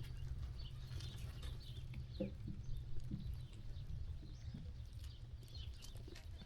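Farmyard ambience: many small birds chirping over a steady low rumble, with a brief low animal call about two seconds in.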